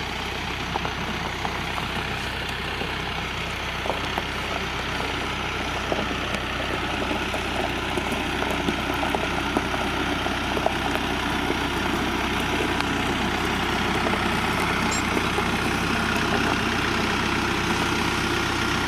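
Tractor engine running steadily at low speed, getting slightly louder over the middle of the stretch, with a few faint clicks.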